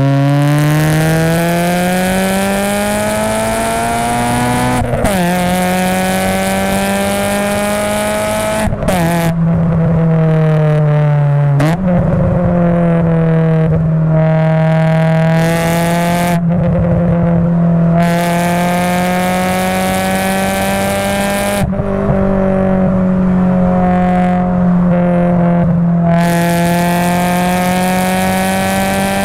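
Honda Prelude SiR's H22A four-cylinder VTEC engine through a Skunk2 resonated cat-back exhaust with a Spoon decat pipe, heard from just above the tailpipe. It revs up hard through the gears, the pitch dropping at each upshift about 5, 9 and 12 seconds in, then holds a steady drone at speed, easing off the throttle twice.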